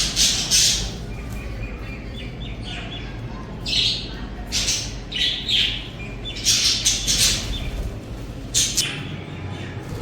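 Pet budgerigars chirping, with several loud bursts of harsh, high squawking calls and quieter warbling chatter in between.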